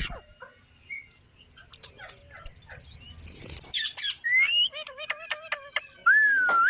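Pet green parrots calling: scattered short chirps and clicks, a rising whistled call about four seconds in, and a loud drawn-out squawk near the end.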